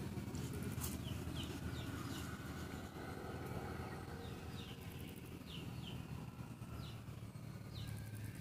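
A bird giving short, falling chirps, a few at a time, over a steady low rumble.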